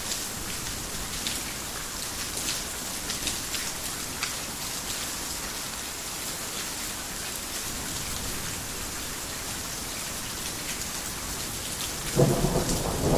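Heavy rain falling steadily on a roof, with scattered sharp drop hits. About a second before the end, a loud low thunder rumble breaks in.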